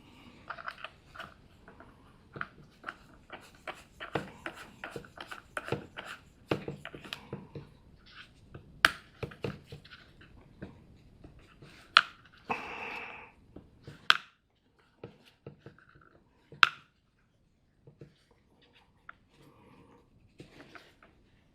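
Hands working on a cordless electric chainsaw with no battery fitted: scattered clicks, taps and clatters of tools and the saw's parts being handled. There are a few sharper knocks and a brief rasping sound about twelve seconds in.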